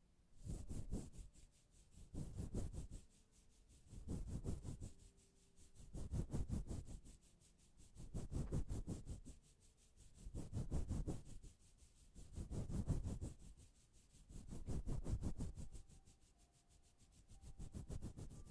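Repeated rasping rubbing strokes, one about every two seconds, each swelling and fading.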